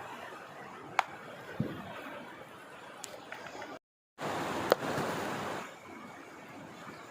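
River water rushing as a steady hiss, with a sharp click about a second in and a low thump soon after. A brief gap of silence near the middle, after which the rushing is louder for about a second and a half before settling back.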